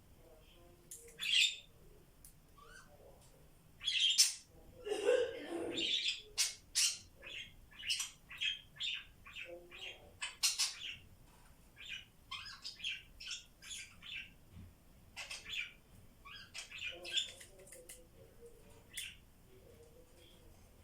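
Pet parrots calling: a string of short, sharp chirps and squawks, with a louder, harsher squawk about four seconds in and a quick run of brief chirps, about two a second, that goes on for several seconds after it.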